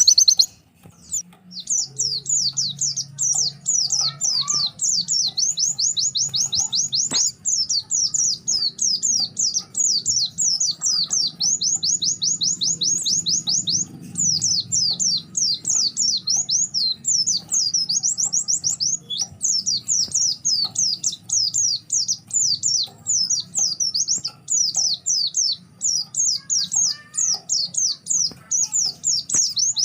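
White-eye (pleci) singing a long, rapid run of high, down-slurred chirps, almost without a break after a short pause at the start. It is a calling song to a rival, used as a lure to set other pleci singing.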